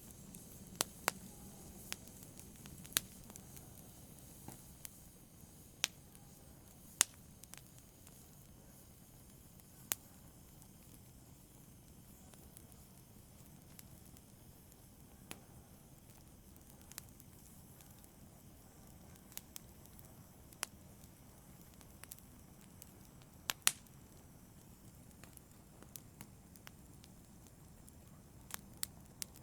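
Wood fire crackling in a fireplace: sharp pops and snaps at irregular intervals over a soft, steady low rush of burning, a few of the snaps louder than the rest.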